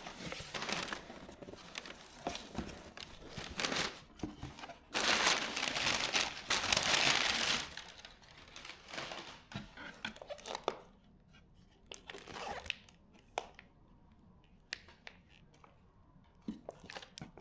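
Packaging being crinkled and torn open, with a dense, loud stretch of crinkling in the middle that thins out to scattered crackles and clicks.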